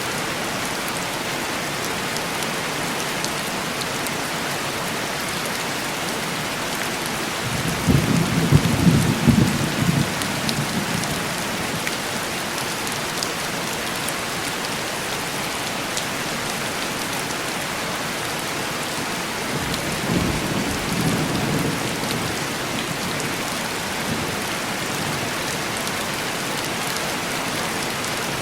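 Heavy rain hissing and tapping steadily on window glass, with two rolls of thunder: a louder rumble about eight seconds in that lasts a few seconds, and a softer one about twenty seconds in.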